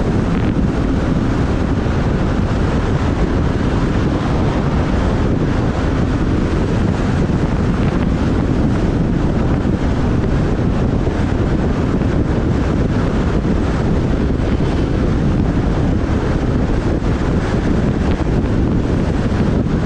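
Wind buffeting the microphone of a moving motorbike, a steady loud rushing with the motorbike's running and road noise beneath it.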